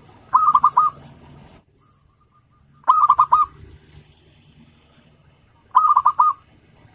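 Zebra dove (perkutut) singing: three short phrases of four or five quick cooing notes, about two and a half seconds apart.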